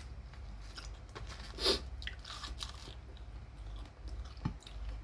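A person chewing crispy fried chicken, with irregular crunches as the breaded coating breaks between the teeth.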